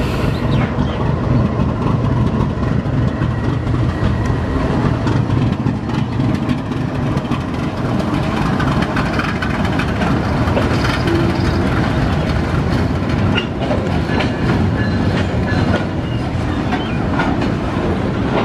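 Diesel-hauled train running past close by: a steady heavy engine rumble with the wheels clicking and clattering over the rail joints.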